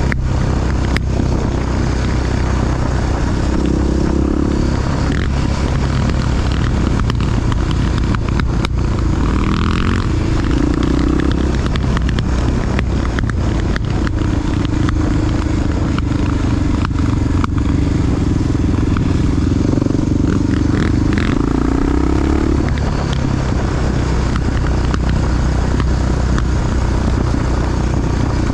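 Honda XR dual-sport motorcycle's big four-stroke single-cylinder engine running steadily while being ridden, its note shifting a few times. Small knocks and rattles come through the whole time.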